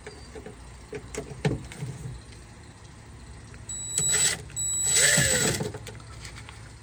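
Cordless power driver running in two short bursts with a high whine, backing out a door-panel screw, after a few small clicks of handling.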